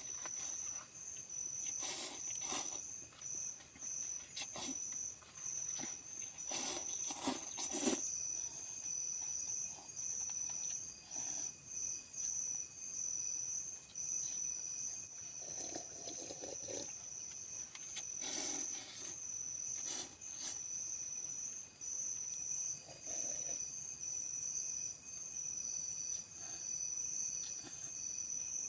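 Insects trilling: a high, rapidly pulsing chirp with a second steady tone joining about a third of the way in, over scattered sharp clicks and knocks.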